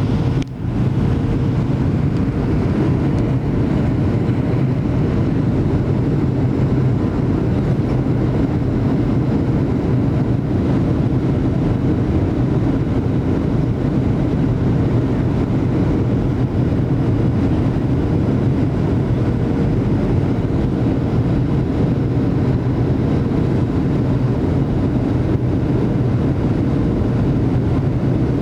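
Steady cabin noise of a Boeing 737-800 on approach: the drone of its CFM56 engines and the airflow, with a steady hum running under it.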